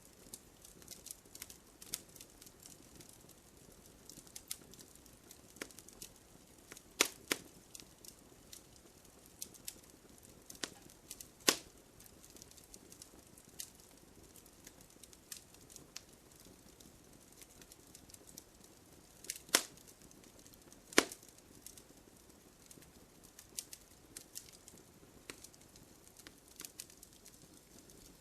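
Campfire crackling: a steady scatter of small pops and snaps from burning wood over a faint hiss, with a few sharper, louder cracks, about four of them.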